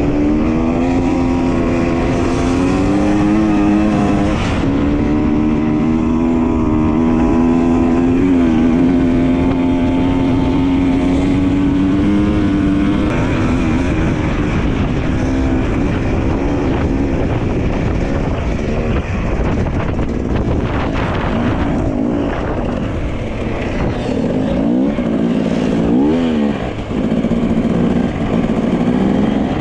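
Dirt bike engine running at a steady pitch while riding, with wind rumble. After about twelve seconds the revs change more often, rising and falling several times near the end as the throttle is worked.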